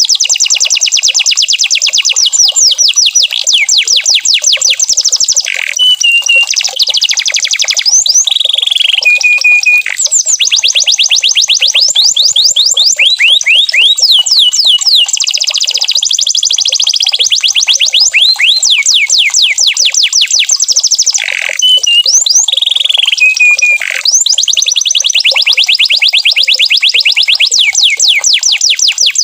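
Domestic canary singing a continuous song: fast rolling trills of rapid downward-sliding notes, broken a few times by short held whistles.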